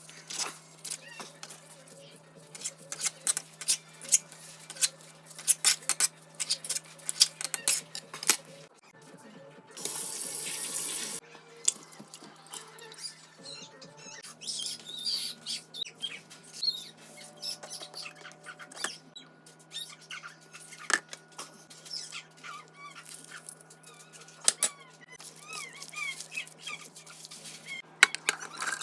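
Kitchen preparation sounds: many sharp clicks and knocks of utensils and dishes, with a hiss about ten seconds in, likely a tap running briefly.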